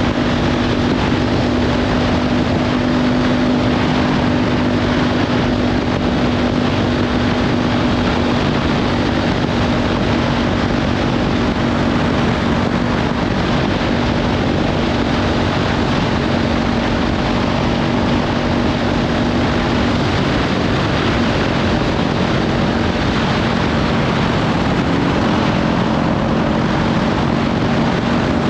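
Kawasaki Ninja 500 parallel-twin engine with a LeoVince slip-on exhaust running at a steady cruise, heavily masked by wind rushing over the microphone. The engine note holds steady and shifts slightly about two-thirds of the way through.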